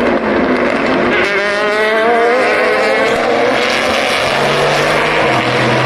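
Race car engine at full throttle, its pitch climbing steadily as it accelerates. A second, lower steady engine note comes in near the end.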